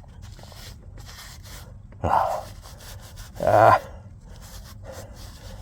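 A man's two short breathy groans or heavy exhales, about a second and a half apart.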